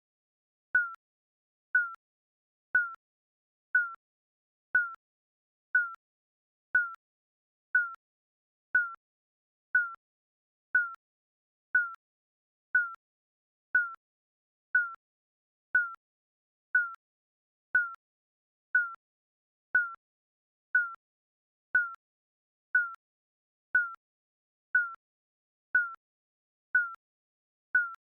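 Digital countdown timer beep: a short, high electronic beep once every second, each with a sharp click at its start and dipping slightly in pitch, marking off the seconds.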